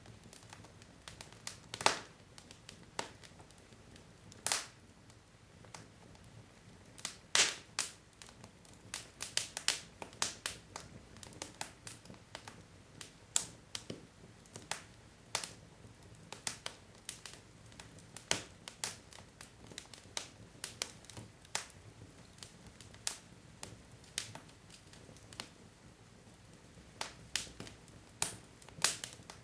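Wood fire burning in a fireplace: irregular sharp crackles and pops of burning logs over a faint steady hiss, with a few louder pops and quicker clusters of crackles.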